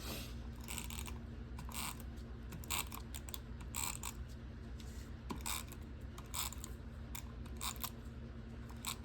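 Mini tape runner being drawn across paper again and again in short, scratchy strokes, its dispensing wheel clicking as it lays adhesive. It struggles to lay tape, which is typical of a runner that is nearly empty.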